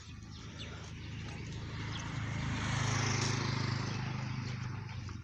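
A motor vehicle passing by, its engine and road noise rising to a peak mid-way and fading out near the end.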